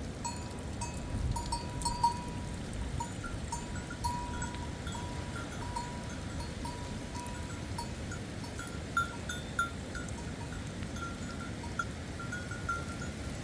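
Livestock bells clinking and ringing over and over, over a steady hiss of rain.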